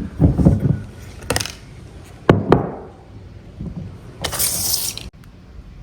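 Handling knocks and clicks as a glass candle jar is set down and moved into place, followed by a brief hiss about four seconds in; the sound cuts off abruptly about a second later.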